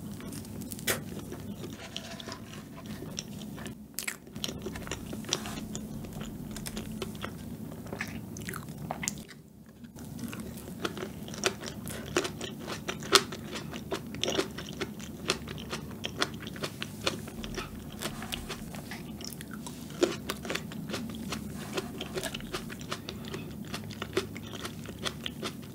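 Close-miked chewing of a mouthful of soft fresh-cream sponge cake: many small wet mouth clicks and smacks. A steady low hum runs underneath.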